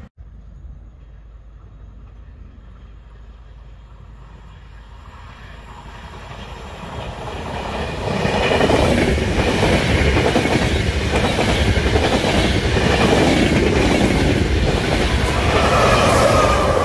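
Trenitalia Intercity train approaching and running past close by, its wheels clacking rhythmically over the rail joints, loudest from about halfway on. Near the end comes a thin squeal of wheels on the rails.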